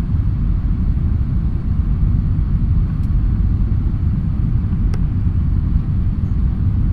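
Steady low rumble inside an Airbus airliner's cabin during the landing, the noise of its engines and airflow, with a faint click about five seconds in.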